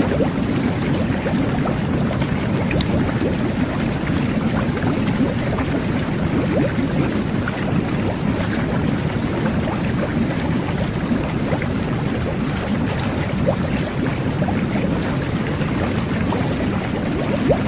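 Jet bath (whirlpool bubble bath) running: water churning and bubbling steadily from the jets, a dense low rumble of bubbles with small splashes.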